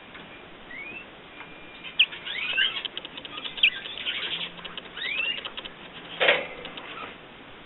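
Pet birds kept indoors give short upward-sweeping chirps every second or so, with light clicks and scrabbling between them and a brief flutter of wings about six seconds in.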